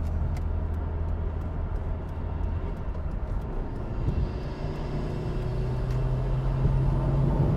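Mitsubishi Lancer Evolution Tommi Mäkinen's turbocharged four-cylinder engine running at motorway speed, with tyre and wind noise, heard from inside the cabin. About four seconds in the engine note comes up and rises steadily, as the car accelerates.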